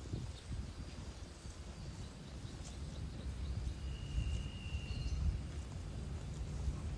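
Low, uneven rumble of wind buffeting the microphone outdoors, with a brief thin high whistle about four seconds in. No cattle lowing is heard.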